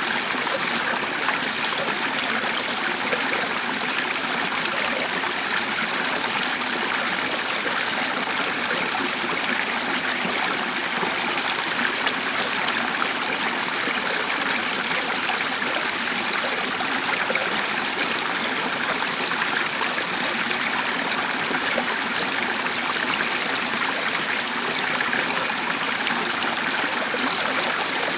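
A stream of water running steadily, an even rush with no breaks.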